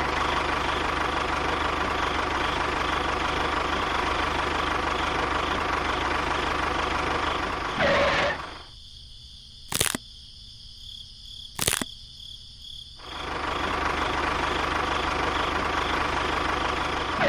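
Small motor running steadily, stopping about 8 seconds in and starting again about 13 seconds in; two sharp clicks sound while it is off.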